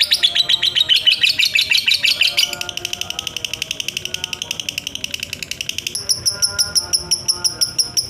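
Lovebird's ngekek: a long, unbroken chattering trill of rapid high-pitched pulses, about ten a second, changing its tone about two and a half seconds in and again about six seconds in.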